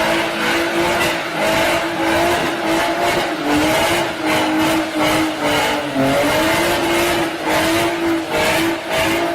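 A car engine held at high revs, with tyre squeal; the pitch stays almost level, wavering slightly, under a fast rough pulsing.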